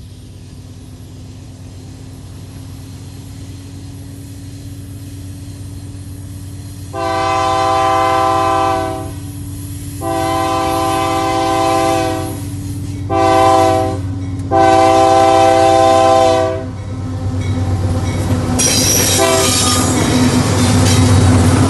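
Diesel freight locomotive approaching with a steadily rising engine rumble, sounding its air horn in the level-crossing signal: long, long, short, long. Near the end the locomotive draws alongside and its engine and wheels grow loud.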